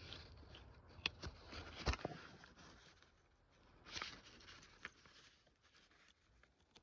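Hands working on car door lock parts: a few sharp clicks and knocks, the loudest about two seconds in, over light rustling and scraping as a piece is pushed into place.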